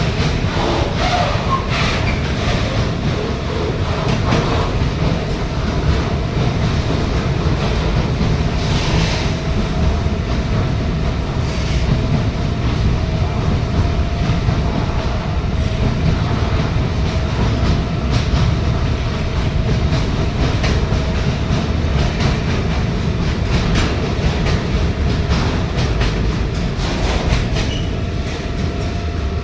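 Container freight train rolling past: a steady rumble of wagon wheels on the rails, with many quick clacks over the rail joints and a faint steady whine throughout.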